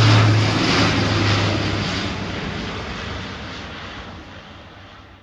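Aircraft engine noise: a steady low hum under a broad roar, fading out over about five seconds and cutting to silence near the end.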